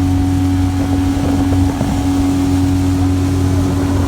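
Boat's outboard motor running at a steady, even pitch, heard from aboard the boat.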